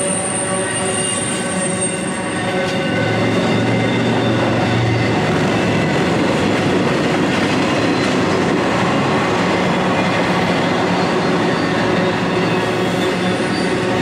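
Intermodal freight train rolling past: double-stack container well cars and trailer flatcars making a steady, loud rumble of wheels on rail. Thin, high wheel squeal rings over it, with the highest tone fading out about a second and a half in.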